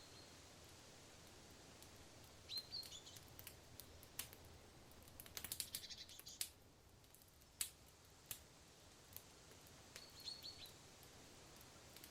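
Faint forest ambience: a small bird gives two short chirping calls, about two and a half seconds in and again near the end. Scattered sharp clicks and crackles sound between them, thickest in a quick run around the middle.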